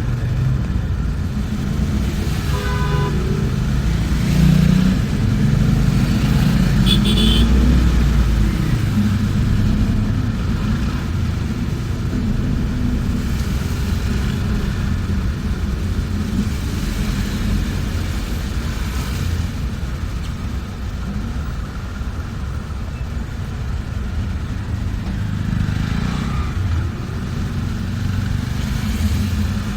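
Moving bus heard from inside: a steady low rumble of engine and road noise. A brief pitched tone comes about three seconds in and a short high tone about seven seconds in.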